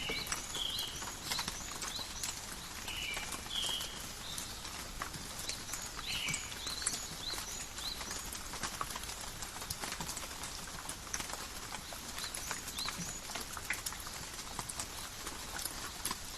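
Steady rain falling in a forest, with many irregular drips and taps of drops striking leaves and ground. A few short high chirps come through in the first several seconds.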